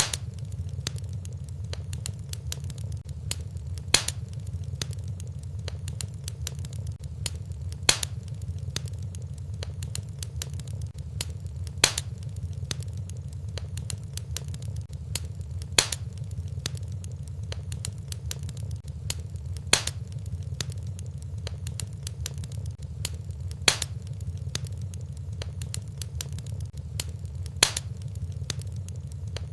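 Wood fire burning in a fireplace: steady low rumble with continuous small crackles and a louder pop about every four seconds. The evenly spaced pops come from a short fire recording looped over and over.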